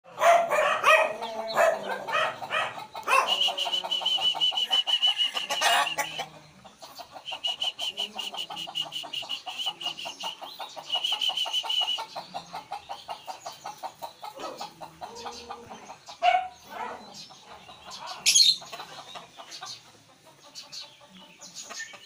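Birds calling: clucking and fast pulsed chattering, with a high steady trill in stretches of a few seconds and two sharp louder calls near the end.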